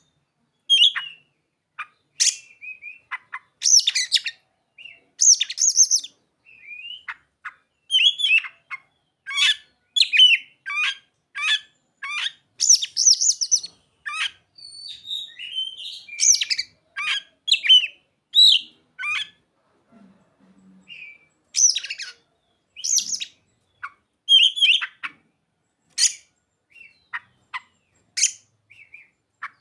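Oriental magpie-robin (kacer) singing a rapid, varied song of short chirps, trills and whistles, woven with calls copied from ciblek and sogon birds. It breaks off into short pauses and falls briefly quiet about two-thirds of the way through.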